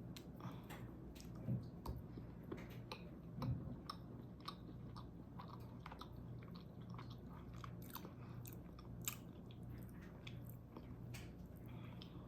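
A person biting into and chewing an Aero Scoops vanilla bean chocolate, mouth close to the microphone: soft wet clicks throughout, with two louder bites about a second and a half and three and a half seconds in, over a faint steady low hum.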